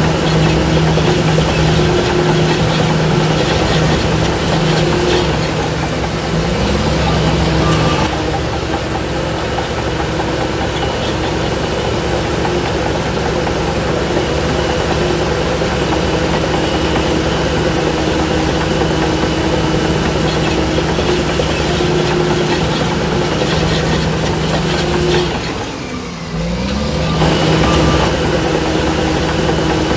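Heavy diesel engine of earthmoving machinery running steadily at a constant pitch. Its pitch and level sag briefly near the end, then climb back.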